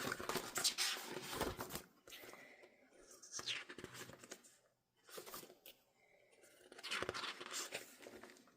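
Paper, cardboard and plastic album inclusions being handled and shuffled, rustling and crinkling in irregular bursts with short pauses.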